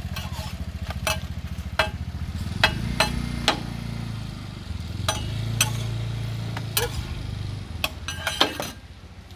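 Metal utensils clinking and scraping on a street-food pancake griddle, a dozen or so sharp clinks spread irregularly, over a steady low engine hum.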